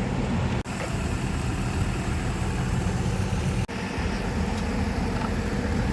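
Steady low engine hum, like a motor idling, with the sound cutting out for an instant twice, about half a second in and past the middle.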